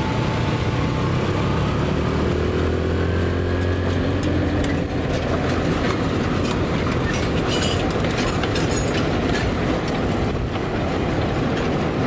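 A narrow-gauge sugar cane train on the move: the diesel locomotive's engine hum with the cane wagons rolling and clattering on the rails.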